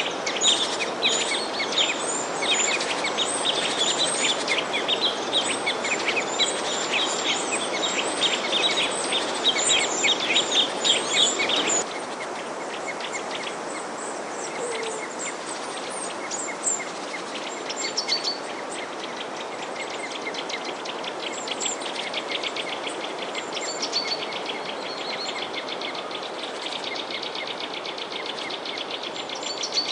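Many small birds chirping densely over a steady rushing background, with insects trilling. About twelve seconds in, the sound cuts to a quieter mix with fewer bird calls and a steady fast insect trill.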